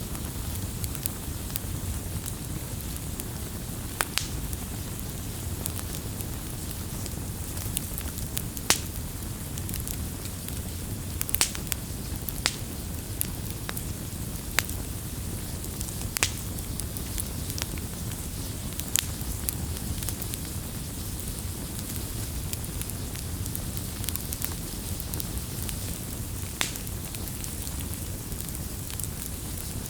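Campfire crackling: a steady low rumble of burning wood with scattered sharp pops and snaps, the loudest pop about a third of the way in.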